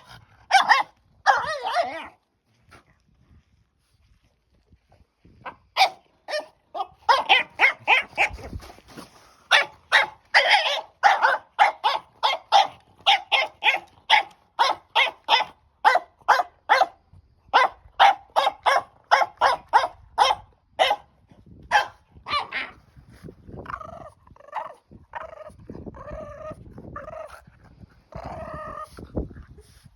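French bulldog puppy barking and yipping in quick runs of short barks while playing with a stick, with a quiet pause a few seconds in; the barks are densest through the middle and more spaced out near the end.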